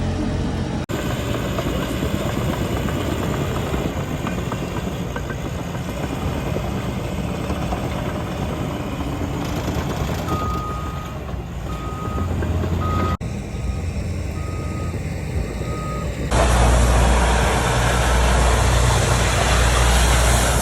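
Vehicle engines running, with a reversing alarm beeping repeatedly for several seconds from about halfway through. Near the end the sound cuts to a louder, low rumble.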